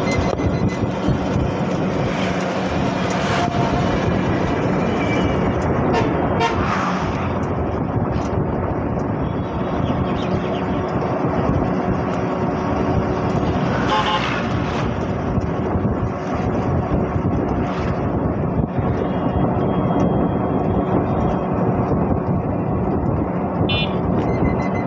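Busy town road traffic running steadily, with vehicle horns tooting now and then, most clearly about halfway through.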